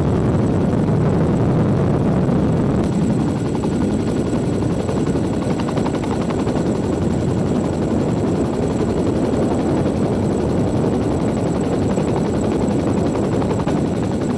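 Boeing CH-47 Chinook tandem-rotor helicopter running loud and steady, the rapid beat of its rotor blades over the rush of its turbines.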